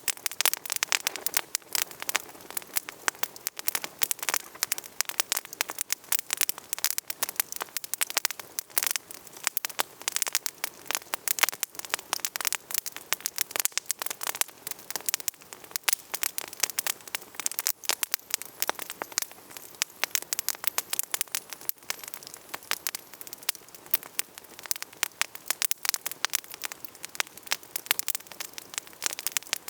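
Wood campfire crackling steadily: a dense run of sharp snaps and pops over a soft hiss.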